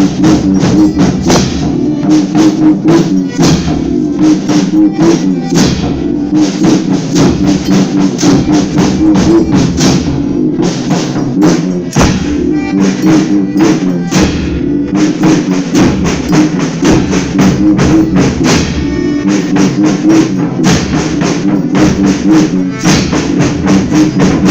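Instrumental passage of a folia group: rapid, steady drum beats and jingling percussion over held pitched notes, with no singing.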